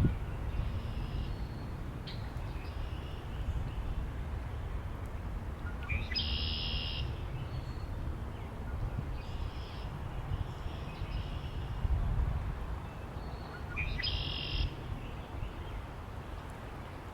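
Songbirds singing in short phrases, with two louder calls about six and fourteen seconds in, each opening with a quick rising note. Underneath runs a steady low rumble of wind.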